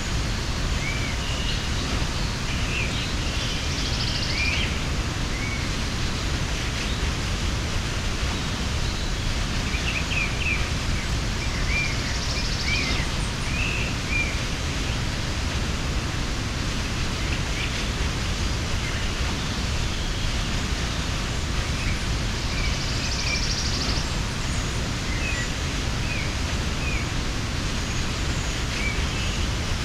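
Waterfall rushing steadily, with small birds giving short chirps now and then over it.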